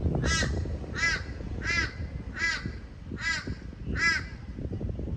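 A bird calling six times at an even pace, short calls a little under a second apart.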